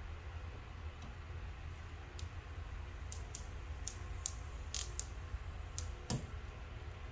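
Scattered light clicks and ticks over a steady low hum, with a sharper knock about six seconds in.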